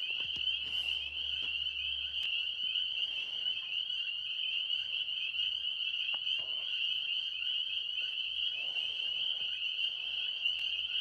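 Chorus of tree frogs calling continuously at night, a dense, steady high-pitched trilling.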